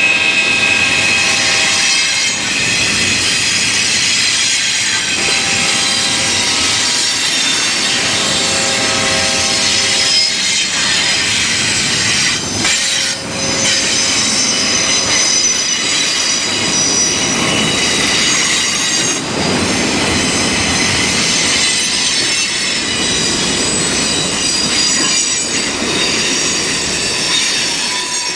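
Train cars rolling past with their steel wheels squealing against the rails: several high, wavering squeal tones over a steady rumble of the passing train.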